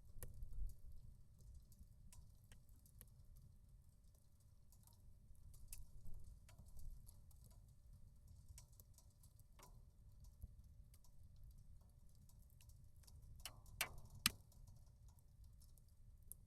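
Small wood fire crackling in a portable titanium fireplace stove: scattered faint pops and ticks, with a few sharper pops about three-quarters of the way through, over a low rumble.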